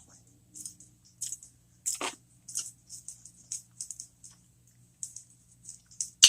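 Close-up chewing of a cheeseburger jalapeño popper: soft, wet mouth clicks, a few a second and irregular, with a sharper click about two seconds in and a loud one at the very end.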